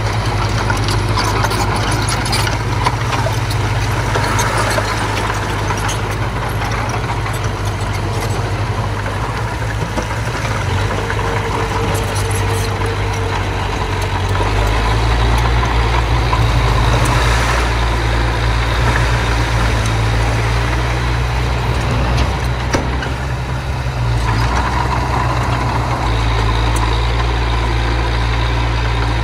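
Diesel engine of earthmoving machinery running steadily. It gets louder and heavier about halfway through, then shifts again a few seconds before the end.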